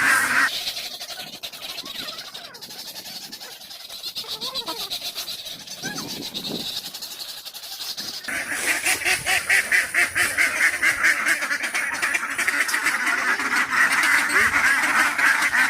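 A flock of ducks quacking noisily together as they crowd in to feed. The din is loud at first, drops for about eight seconds, then comes back loud and continuous.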